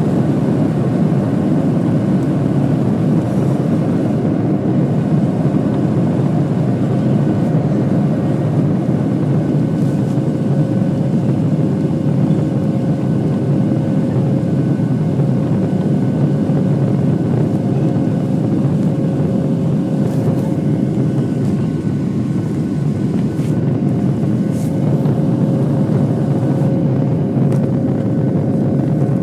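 Boeing 737-700's CFM56-7B jet engines at high power heard from inside the cabin: a steady, deep drone of engine and air noise with a faint steady hum, as the airliner takes off and climbs.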